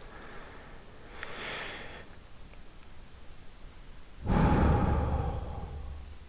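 A faint airy hiss about a second in, then a sudden, louder rush of air on the microphone about four seconds in that fades away over a couple of seconds.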